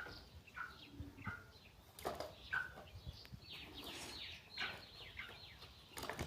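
Birds calling: short chirping notes repeated every half second or so, with a run of harsh, quickly falling notes about halfway through and a few sharp clicks.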